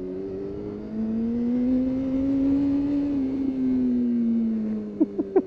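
Yamaha R6 inline-four sportbike engine with an aftermarket Remus exhaust can, accelerating gently: the engine note rises steadily for a couple of seconds, holds, then falls away as the throttle closes. A few short knocks come near the end.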